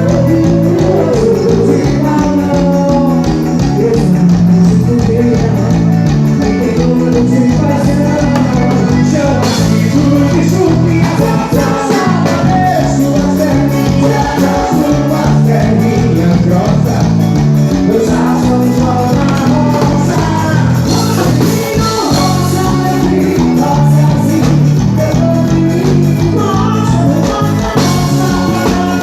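Forró band playing live with a singer's voice over a steady bass and drum beat.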